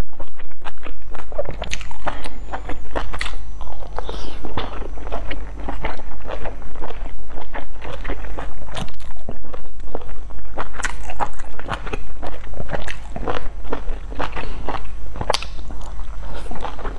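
Close-miked chewing and biting of soft steamed buns: a fast, steady run of short mouth clicks.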